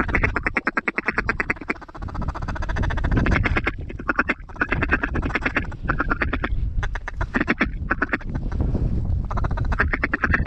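Mallard duck calls blown in long runs of rapid chuckling and quacks, pausing briefly between sequences, to work the circling mallards. Wind rumbles on the microphone underneath.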